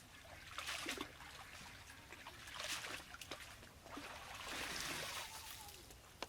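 Water splashing and trickling in swells: two short ones, then a longer one about two-thirds of the way in.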